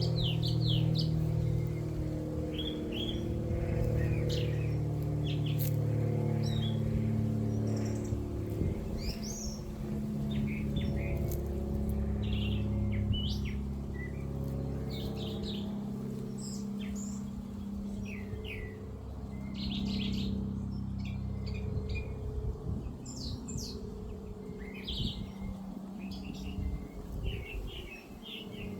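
A songbird singing, with short chirps and quick trilled phrases repeated throughout, over a low steady hum.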